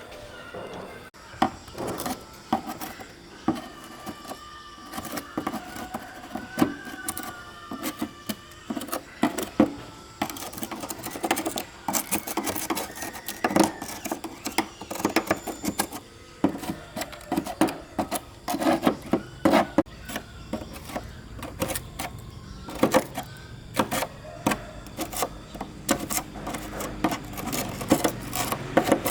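Irregular clicks, taps and rubbing of hands and tools handling parts, with a faint wavering tone in the first several seconds.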